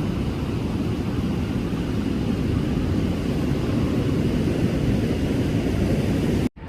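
Steady low roar of ocean surf and wind on the microphone, cutting off suddenly near the end.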